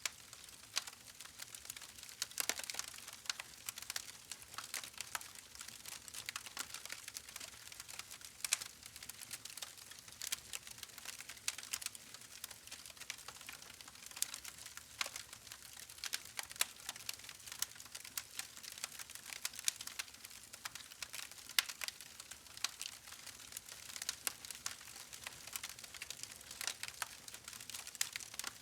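Wood fire crackling: frequent irregular sharp snaps and pops over a faint steady hiss.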